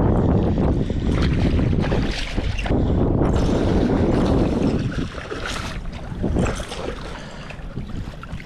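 Strong wind buffeting the microphone in a low rumble, with water lapping around; the gusts ease about five seconds in.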